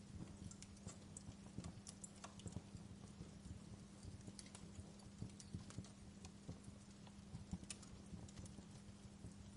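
Wood fire in a fireplace crackling softly, with irregular small pops and snaps over a faint steady hiss and a low hum.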